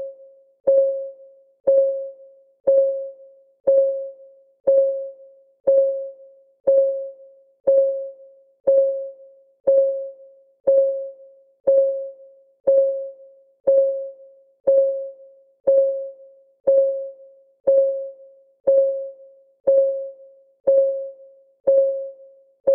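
Countdown timer's clock-ticking sound effect: a short tick with a brief ringing note, repeating steadily about once a second.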